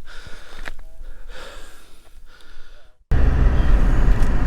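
A person breathing hard, with several deep breaths in and out. About three seconds in there is a sudden cut to a car's engine and road noise running steadily from inside the cabin.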